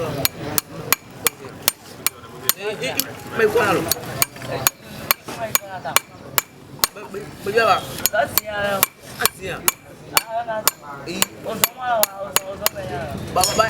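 Hammer striking metal in a long, uneven series of sharp taps, about two to three a second.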